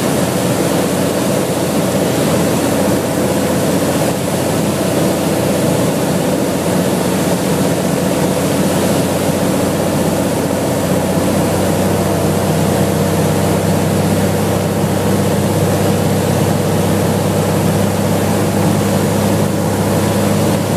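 Cessna 182's single piston engine and propeller running steadily, a low drone under a constant rushing noise.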